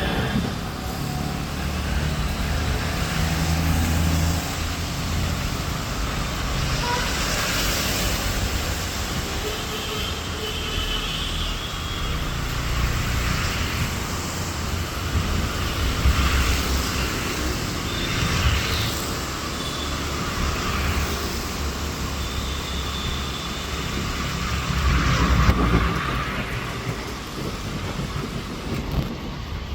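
Road traffic passing: vehicle engines and tyres rising and fading as vehicles go by, with a few short horn toots.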